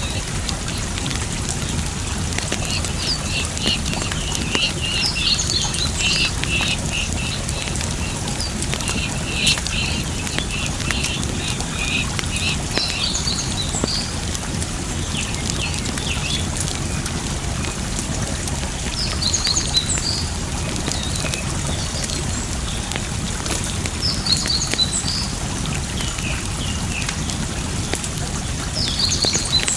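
Campfire wood crackling and popping in sharp, scattered snaps over a steady rush of flowing water, with birds chirping in short bursts every few seconds.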